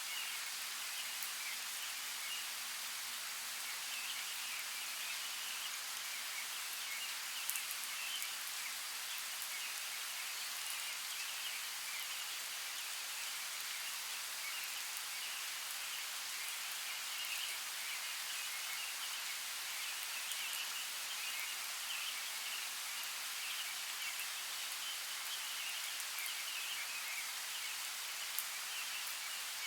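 Steady rain, an even fine hiss, with a couple of sharper drop ticks: one about seven seconds in and one near the end.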